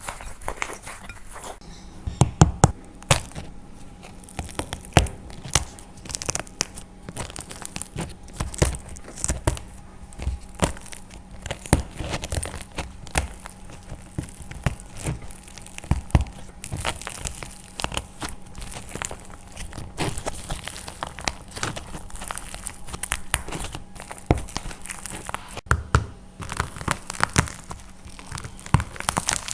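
Dried plaster clay being crushed and cracked by hand: an irregular run of crunchy crackles and snaps, with the loudest cracks about two to three seconds in.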